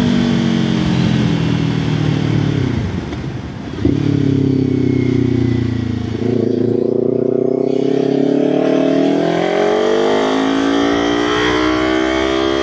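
Kawasaki Ninja 500's parallel-twin engine and exhaust under way: the revs fall off for about four seconds, a sharp jump comes as the bike picks up again, and the engine note then climbs steadily as it accelerates.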